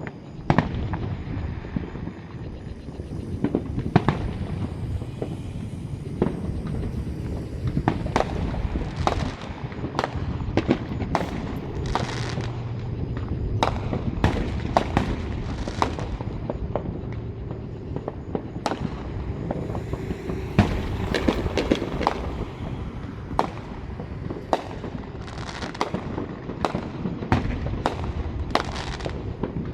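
Fireworks show: many sharp bangs and crackling reports, coming thick and fast over a continuous low rumble.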